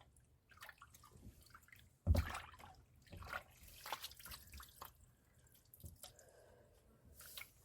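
Water dripping and splashing in small irregular spatters as soaked paper pulp is handled by hand in rainwater, with a louder thump about two seconds in.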